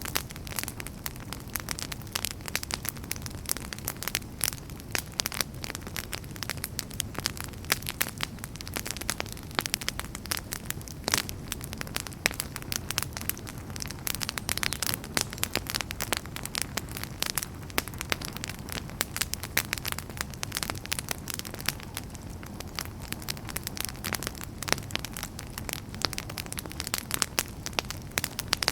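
Wood fire burning in a fireplace, crackling and popping continuously with many irregular sharp snaps over a steady low rumble of the flames.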